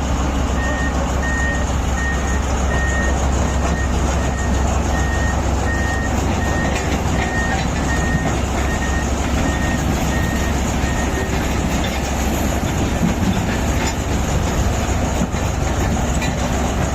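Heavy crawler bulldozer's diesel engine running under load, with a reversing alarm beeping at a steady rhythm that stops about eleven seconds in; metallic clanking of the tracks.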